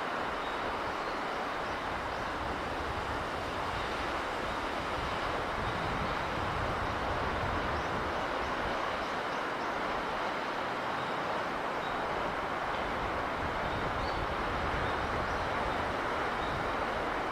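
Steady, unbroken rushing noise of sea breeze and surf, holding an even level throughout.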